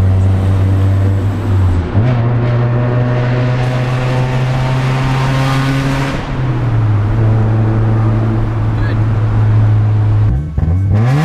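Car engine heard from inside the moving car, holding a steady note that jumps higher about two seconds in, drops back around six seconds, and revs up sharply near the end as the car changes speed through the gears.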